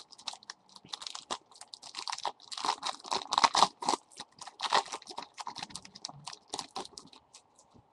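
Foil trading-card pack wrapper crinkling and crackling as it is torn open and handled, a dense irregular run of crackles that thins out near the end.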